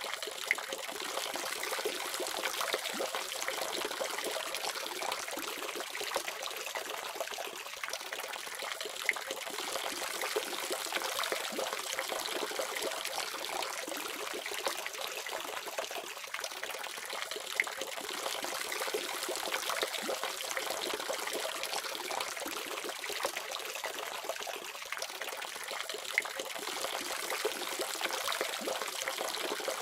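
Water running steadily from a faucet, a continuous splashing hiss without pause.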